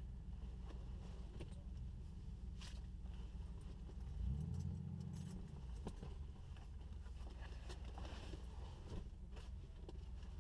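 Classic Porsche 911's air-cooled flat-six idling, heard inside the cabin, with one short throttle blip about four seconds in. Light clicks and rattles in the cabin sound over the idle.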